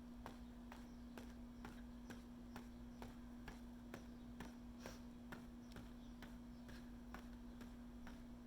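Footsteps of a person walking at a steady pace, faint even taps about two a second, over a steady low hum.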